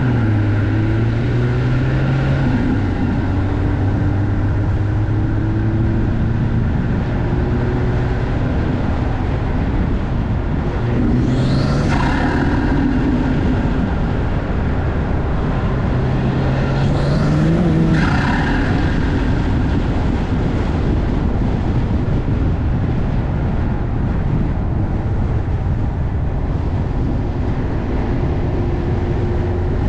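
BMW B58 turbocharged inline-six with an MST cold air intake, running under way. It pulls up in pitch twice, about eleven and seventeen seconds in, and each pull breaks off in a brief rush of intake noise.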